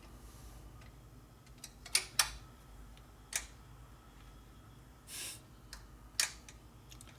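A few sharp metallic clicks and taps from parts and tools being handled while a part is worked into place on a motorcycle, the loudest pair about two seconds in, with a brief scrape a little past five seconds.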